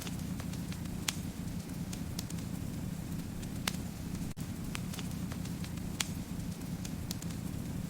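Wood fire crackling in a fireplace: a steady low rumble of flames, with sharp pops and snaps scattered irregularly, about one every second or two.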